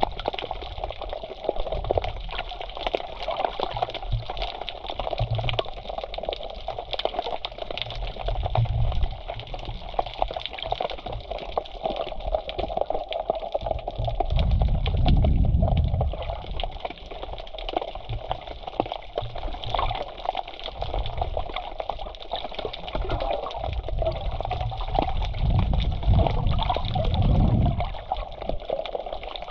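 Black Sea waves washing onto the shore, a continuous wash of water with a fizzing crackle and deeper surges that swell louder about halfway through and again near the end.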